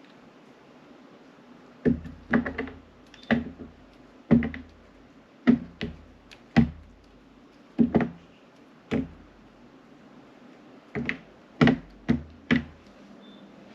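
Knife cutting through a block of glycerin soap and knocking down onto the cutting board: about fifteen sharp knocks with low thuds, irregularly spaced. They start about two seconds in, with a pause of about two seconds before the last few.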